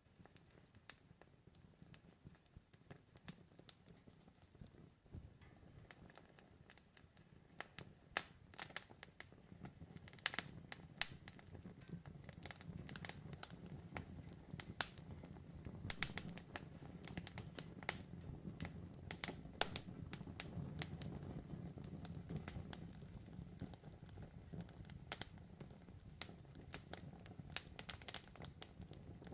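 Campfire wood burning, crackling with irregular sharp pops over a low rumble of flames. The pops grow denser and louder from about eight seconds in.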